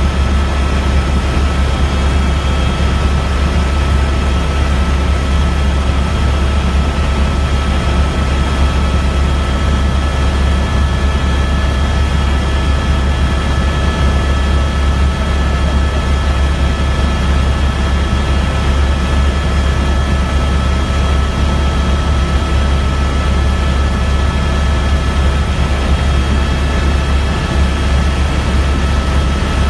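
Steady low drone of a helicopter's engine and rotor, with a few constant whining tones above it.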